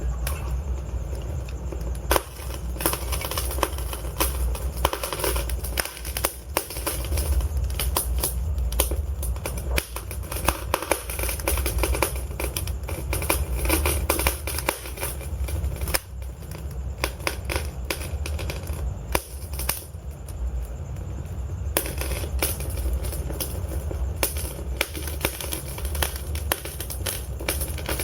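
Log fire burning in a fireplace: a steady low rumble of flames under dense, irregular crackling and snapping of the burning wood. The crackle comes in busy stretches with a few thinner spells between.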